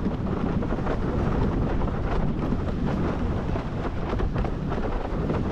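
Steady wind noise buffeting the microphone of a windsurfer's camera while the board sails along, with a continuous low rushing and no breaks.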